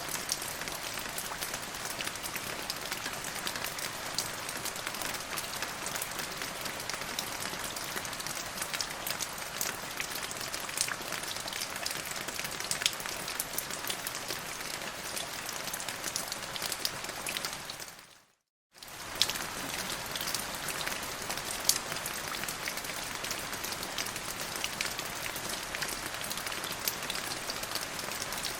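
Steady rain falling, a dense hiss with many small drop hits. About two-thirds of the way through it fades to silence for under a second, then comes straight back.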